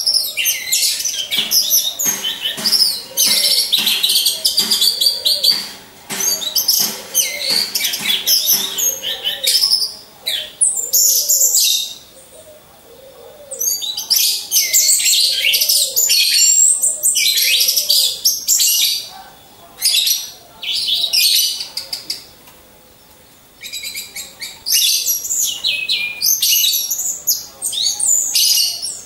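Orange-headed thrushes (anis merah) singing: long bouts of rapid, varied high chirps and whistles, broken by pauses of about one to two seconds.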